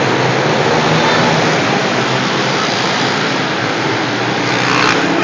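Several pit bike engines running hard at high revs as they race on the ice, blending into one steady, loud din.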